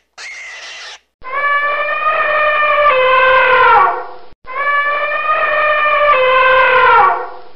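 African elephant trumpeting: two long calls of about three seconds each, holding one pitch and then sliding down at the end, the second identical to the first, with a third starting near the end.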